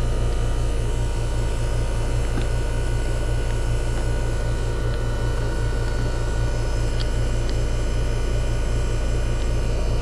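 Outdoor air-conditioner condensing unit running steadily, its single-stage compressor and condenser fan making a strong low hum with a fast, even pulsing. No unusual startup noise is heard; the unit sounds normal while running.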